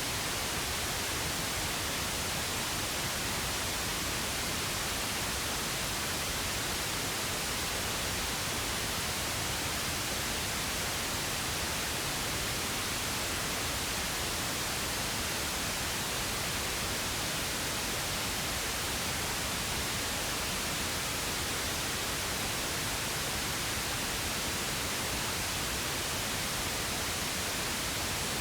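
Steady pink noise: an even, unchanging hiss with no tones or events.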